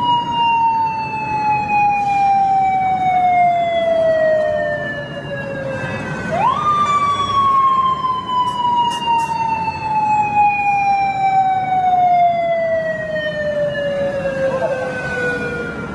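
Japanese police motorcycle siren wailing: a single tone falls slowly over about six seconds, snaps quickly back up, then falls slowly again.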